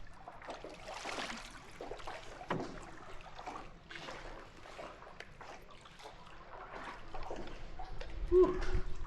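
Water sloshing and splashing around a small rowboat as it is paddled through a cave.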